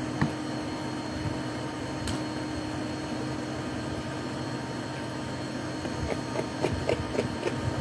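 A steady machine hum with a held tone, with a couple of sharp clicks early on and a run of light knocks and clicks near the end.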